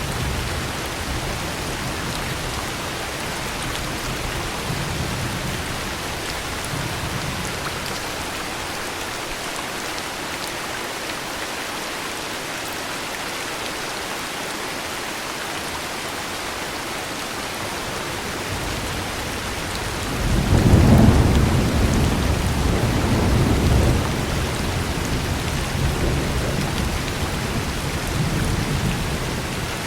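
Steady heavy rain hissing, with thunder rolling: a low rumble fades away early on, then a louder peal of thunder breaks about two-thirds of the way in and rumbles on to the end.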